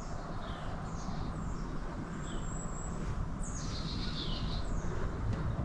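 Wild birds calling outdoors: a series of short chirps that each fall in pitch, and one longer high whistle about two seconds in, over a steady low rumble.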